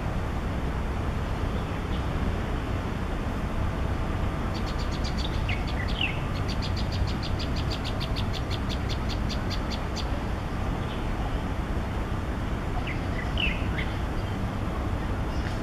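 A bird calling a fast series of evenly repeated high notes, about five a second for roughly five seconds mid-way, with a few short high chirps around it and again near the end. Under it runs a steady low rumble.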